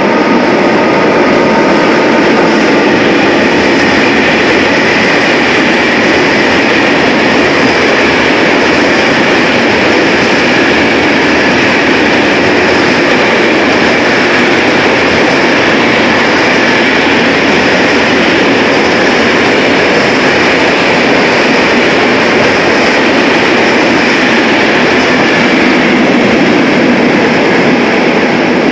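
Freight train hauled by an FS E652 electric locomotive running through an underground station: a loud, continuous rumble of the wagons' wheels on the rails for the whole passage, with faint whining tones in the first several seconds as the locomotive goes by.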